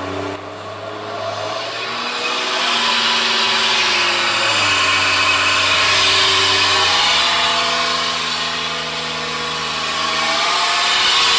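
BMW 740's rear differential giving a loud droning whine, like an airplane, as the car is driven up to speed on a lift; it rises in loudness over the first few seconds, and its pitch shifts in steps a few times. The noise comes from a worn differential.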